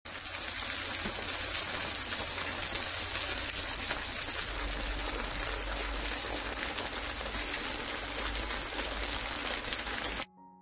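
Tofu slices sizzling in hot oil in a frying pan, a steady dense crackle of spitting oil that cuts off suddenly near the end.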